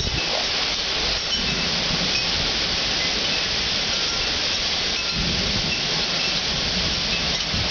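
Heavy rain falling steadily during a thunderstorm, with two low rolls of thunder, one about a second in and another near the end.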